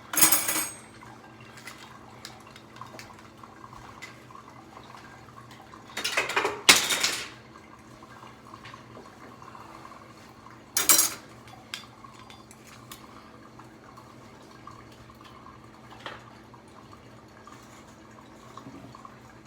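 Dishes and bowls being handled, clattering and clinking, with three louder bursts of handling noise (at the start, about six seconds in, and about eleven seconds in) and scattered small clinks between them, over a steady low hum.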